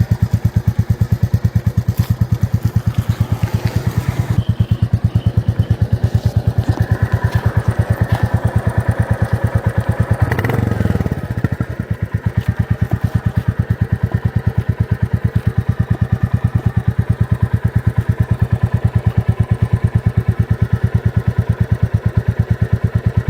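Royal Enfield Classic 350's single-cylinder engine idling through its exhaust with an even, steady beat of pulses. About ten seconds in there is a brief blip of the throttle that rises and settles back to idle.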